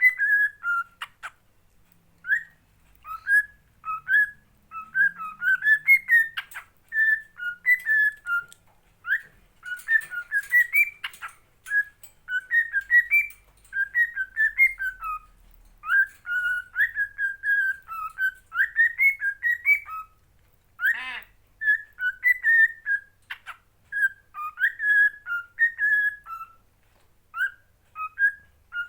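Pet parrot whistling a long warbling string of short, sliding whistled notes, broken by a few sharp clicks.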